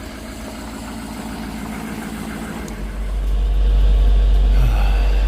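Pickup truck engine idling just after a cold start in snow, getting louder about three seconds in. The owner judges that it "doesn't sound the best, doesn't sound the worst."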